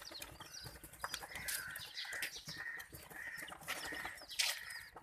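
Baby chicks and ducklings peeping: many overlapping short, high chirps that fall in pitch, mixed with some longer, steadier peeps. A few sharp clicks are heard among them.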